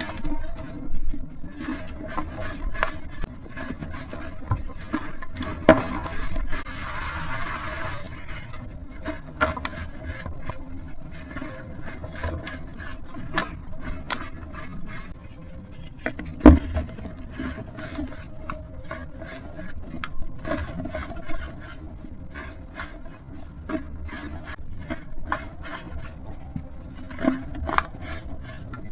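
Brittle material being crumbled and rubbed by hand, with a dense run of small irregular crackles and rasping, and one sharp snap about halfway through.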